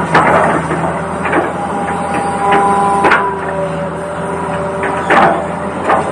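Toy RC excavator's small electric gear motors whining, the pitch stepping up and down as different functions run, with sharp plastic clacks and knocks several times.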